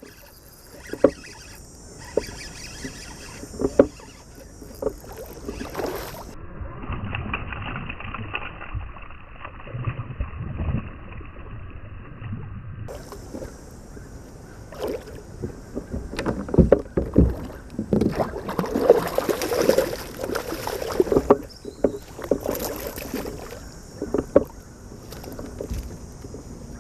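Sounds of fishing from a kayak: water splashing and irregular knocks and clicks of gear against the hull, busiest about two-thirds of the way in. For several seconds early on the sound turns duller.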